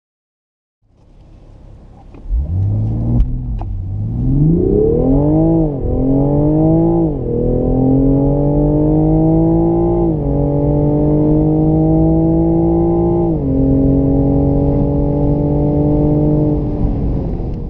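Toyota Supra's BMW 3.0-litre turbocharged inline-six at full-throttle acceleration from a standstill. After a quiet idle the engine note jumps up about two seconds in and climbs in pitch through each gear. Four upshifts each bring a sudden drop in pitch, and the note falls away as the throttle is lifted near the end.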